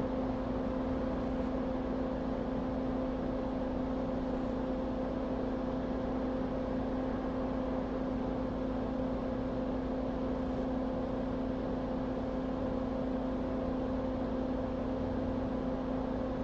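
A small electric fan running steadily: a constant whir with a low, even hum.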